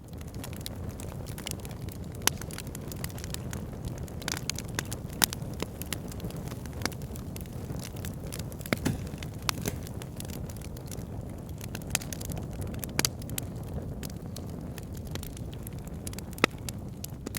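Fire pit burning and crackling: a steady low rush of flames under frequent small snaps, with a louder pop every few seconds.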